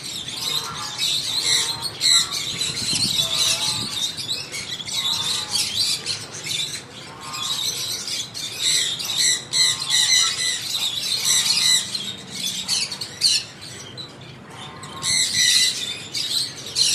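A flock of lovebirds chattering and squawking, many shrill overlapping calls without a break.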